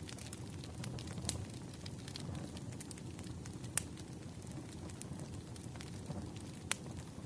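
Campfire burning, a steady low rumble of flames with irregular sharp crackles and pops, two of them louder, about a second in and near the end.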